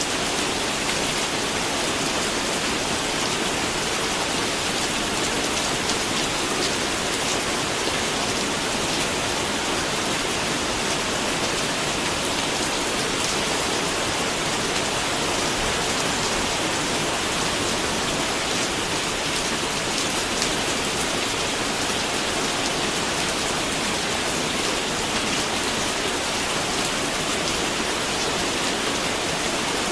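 Steady heavy rain falling on a surface, a dense even hiss with fine patter from the drops.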